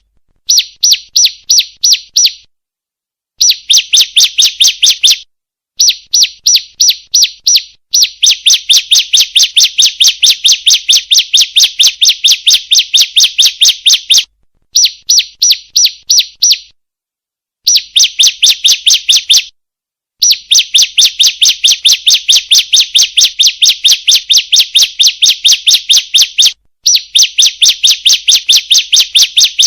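Female ciblek (prinia) calling, used as a lure call to set other ciblek singing. It gives a rapid series of sharp, high chip notes, about five a second, in long bouts broken by short pauses.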